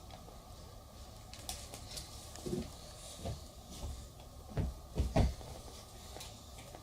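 Soft knocks and bumps of foam toy blocks being handled and stacked, a handful spread out, the loudest two close together about five seconds in.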